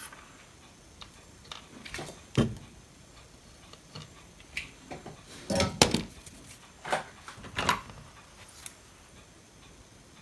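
Irregular sharp clicks and knocks of small tools and electronic parts being handled on a workbench while a component is fitted to a power supply board, the loudest cluster about halfway through.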